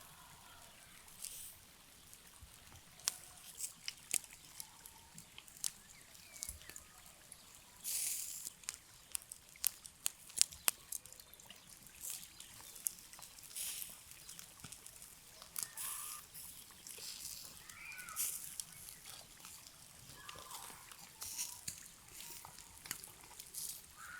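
Food-preparation handling sounds: scattered sharp clicks and taps with short rustling bursts, many times over.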